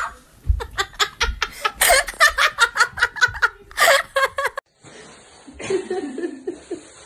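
People laughing hard in quick, choppy bursts, which cut off suddenly about four and a half seconds in; a much fainter, steady background sound follows.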